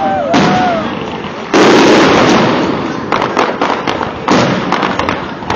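Fireworks display: aerial shells bursting in deep booms, the loudest about a second and a half in, with a run of sharp crackles from the bursts and ground fountain in the later part.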